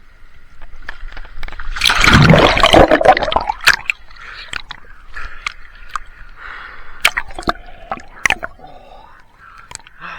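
Seawater splashing and sloshing as a person goes into the cold sea for a winter swim, with a loud rush of splashing about two seconds in, then smaller sloshes and sharp splashes.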